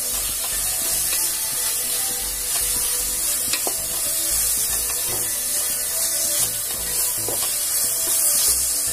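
Sliced onions with crushed ginger, garlic and green chilli sizzling in oil in an aluminium pot, stirred and scraped around the pot with a spoon; a steady frying hiss with a few sharper scrapes. The paste is being sautéed until its raw smell is gone.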